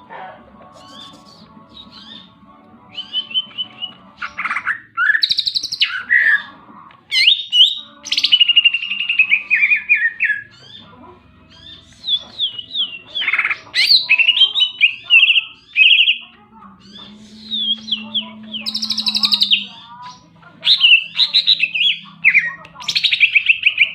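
A cucak ijo (green leafbird) singing in full, continuous voice: phrase after phrase of fast, high-pitched chattering trills and slurred whistles, with short pauses between phrases.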